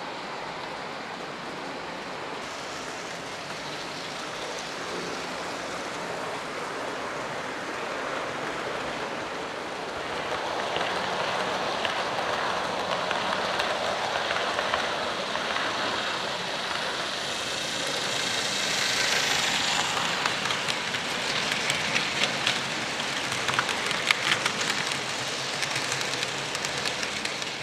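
00 gauge model train running on the layout: a steady hiss of motor and wheels on rail. It grows louder about halfway through as the train draws near, and in the later part sharp clicks come through as the wheels cross rail joints.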